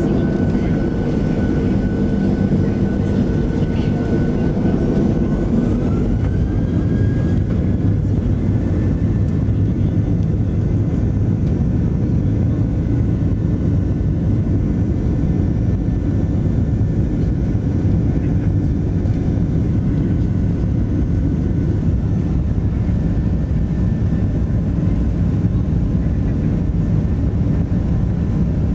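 Boeing 737NG's CFM56-7B jet engines heard from inside the passenger cabin: a loud, steady rumble with a thin whine that rises in pitch about six seconds in.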